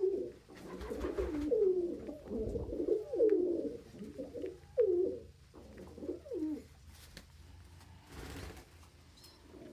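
Domestic pigeons cooing: a run of low coos, each falling in pitch. It goes quieter for the last few seconds, with a brief rustle about eight seconds in.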